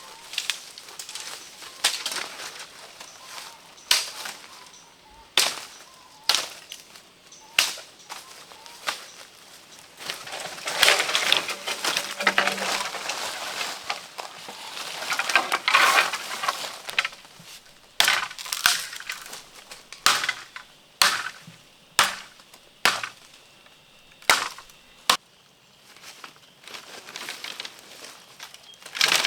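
Repeated sharp snaps or knocks, roughly one every second or two, with a longer stretch of crackling and crunching in the middle, like plant material or wood being broken or chopped by hand.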